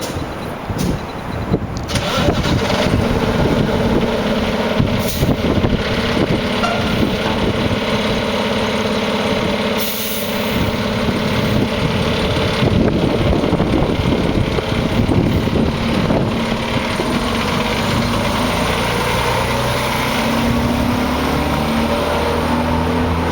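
Diesel engine of a heavy fire rescue truck running loud as the rig pulls away. There is a short hiss, likely of air brakes, about ten seconds in, and the engine note rises near the end as it accelerates.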